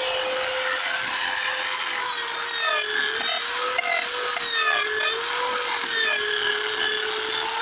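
A small motor running steadily over a loud hiss, its pitch wavering slightly and starting to drop right at the end as it winds down.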